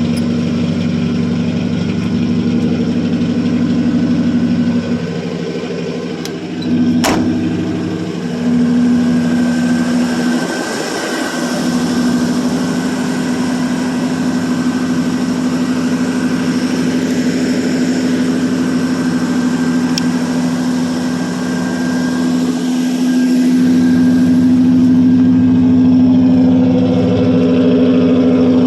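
1985 Chevrolet C10's original 305 small-block V8 running steadily on fast idle just after a cold start, its exhaust note wavering for a few seconds about five to eleven seconds in, with a single sharp click about seven seconds in.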